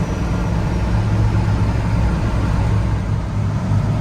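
Grain truck's engine running with a steady low drone while driving, with road noise.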